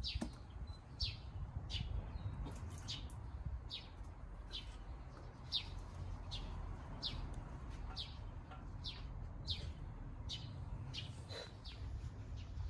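A bird repeatedly chirping: short, high, falling chirps, about three every two seconds, over a low rumble.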